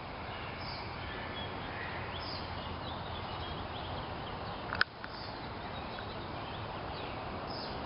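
Steady rush of a small creek's flowing water, with faint bird chirps now and then and one sharp click about five seconds in.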